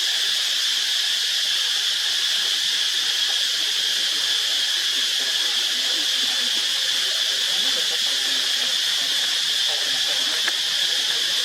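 Steady high-pitched drone of an insect chorus, unchanging throughout.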